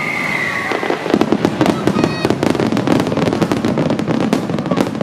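Aerial fireworks finale: a whistle falls in pitch in the first second, then from about a second in comes a dense barrage of rapid bangs and crackles.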